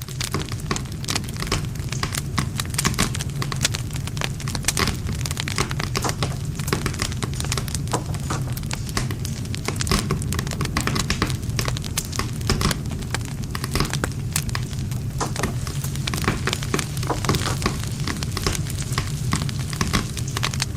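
Wood campfire burning, with dense crackling and popping of the burning wood throughout over a steady low rumble.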